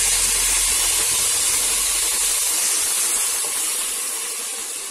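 Chopped tomatoes sizzling as they fry in hot oil with onions and ginger in a stainless steel pot, a steady hiss that eases off over the last two seconds.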